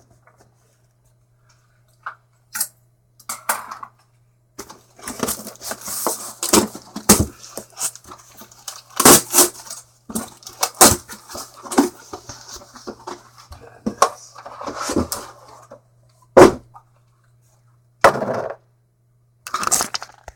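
Packaging being handled and opened during an unboxing: a long run of rustling and scraping with sharp knocks and clatters, the loudest knock about sixteen seconds in.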